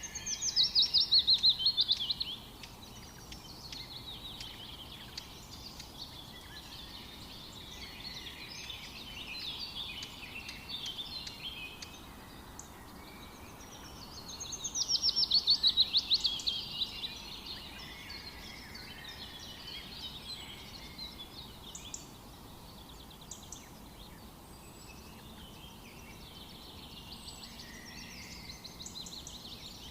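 Forest birdsong: several birds chirping and singing over one another, with two loud bursts of fast, rapidly repeated notes falling in pitch, one at the very start and one about halfway through, over a faint steady background hiss.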